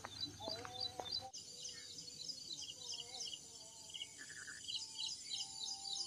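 Morning birdsong in the countryside: a steady run of high chirps, about four a second, with a few short lower whistled notes later on. The sound changes abruptly a little over a second in.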